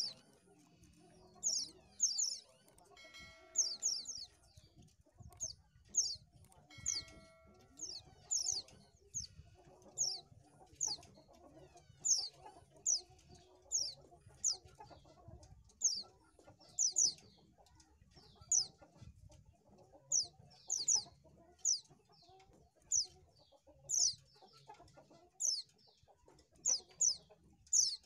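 White-eye (pleci, Zosterops) calling with short, high, downward-sliding chirps, about one a second and often in quick pairs. A lower, fuller call cuts in twice in the first half.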